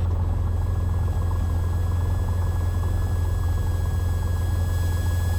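Cessna 182T's six-cylinder Lycoming engine running steadily at low power before the takeoff roll, a constant low drone in the cockpit, with a faint steady whine above it.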